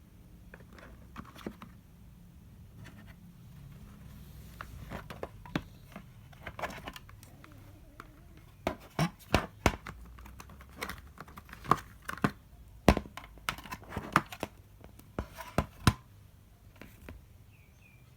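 Hands unpacking and handling a cordless drill and its packaging: crinkling and rustling, then a run of sharp clicks and knocks of hard objects being set down and handled, clustered in the second half.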